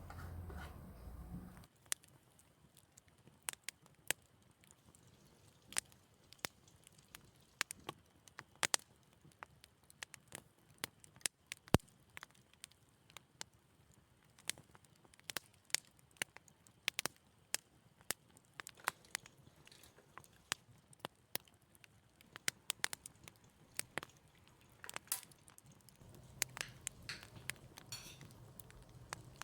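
Scattered light clicks and taps, irregular and sharp, one or two a second, over a quiet room. A low hum sounds for the first couple of seconds and comes back near the end.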